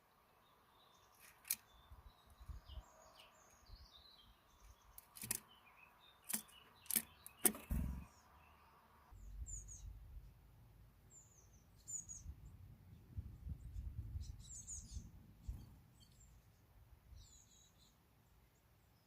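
Small birds chirping in short, high calls. In the first half come several sharp clicks, the loudest about seven and a half seconds in, and from about nine seconds in a low rumble runs underneath for several seconds.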